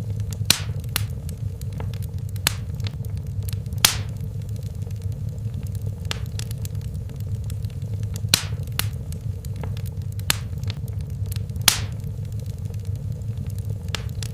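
Wood fire burning in a fireplace: a low, steady rumble of flames with scattered sharp crackles and pops, the loudest about half a second, four, eight and a half and nearly twelve seconds in.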